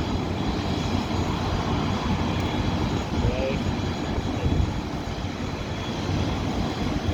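CFM56 jet engines of a Boeing 737-300F freighter running, a steady heavy rushing noise.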